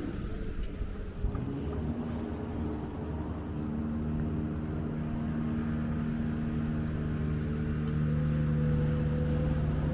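A motor vehicle's engine running close by, a steady hum that grows a little louder and higher near the end.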